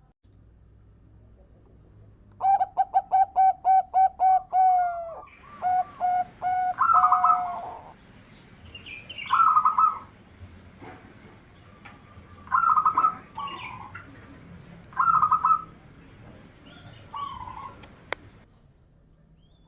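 Zebra dove (perkutut) cooing: a quick run of short, evenly repeated coos, then several shorter cooing phrases a second or two apart. A single sharp click near the end.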